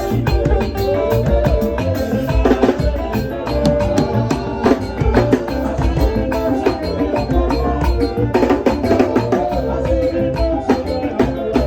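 Live band playing loud, upbeat music with busy hand-drum and drum-kit percussion over sustained instrument lines.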